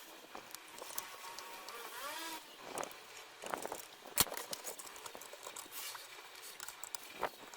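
Irregular light clicks and scrapes from handling parts and tools during hands-on restoration work, with one sharper click about halfway through.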